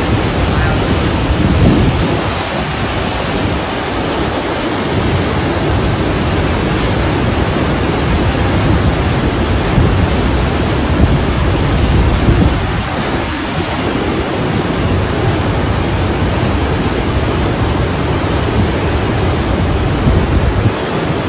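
Loud, steady rush of floodwater in a swollen river, with deeper swells in the first few seconds and again about twelve seconds in.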